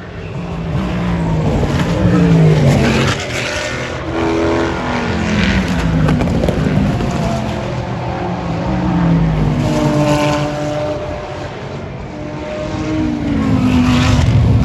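Race cars passing one after another at speed, about four passes, each engine note falling as the car goes by.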